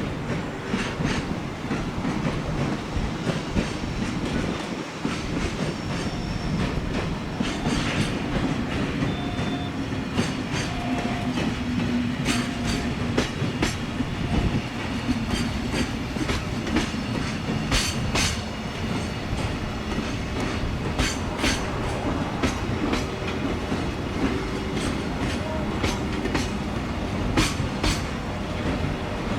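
A train running past with a steady rumble, its wheels clicking over the rail joints again and again.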